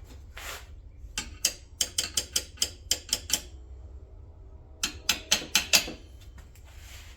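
Two quick runs of sharp metallic clicks and taps, about four a second: a longer run, a pause of over a second, then a shorter run, as small metal parts or hand tools are handled.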